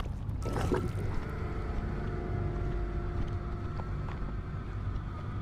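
Animated rushing-wind sound effect of flight on a giant bird's back: a steady low rumble with faint held tones over it, after a short burst of noise within the first second.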